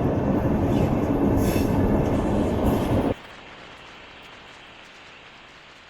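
A moving passenger train's wheels running on the rails: a loud, steady rumble that cuts off suddenly about three seconds in, leaving only a faint hiss.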